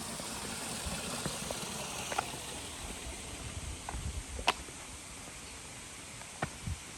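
A hiker's footsteps on a trail: a few scattered sharp steps or knocks, the clearest about four and a half seconds in and two more near the end, over a steady hiss that eases off a little.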